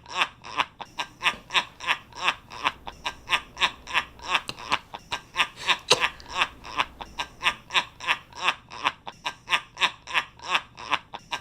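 A person laughing on and on in a fast, even run of short "ha" pulses, about four a second.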